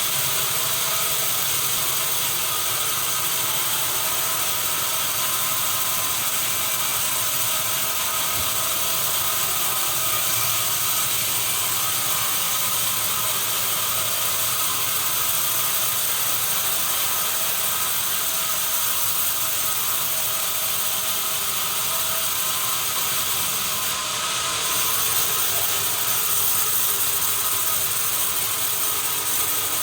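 Sawmill machinery running steadily: a dense, even mechanical noise with several steady tones in it, and a short hiss about twenty-four seconds in.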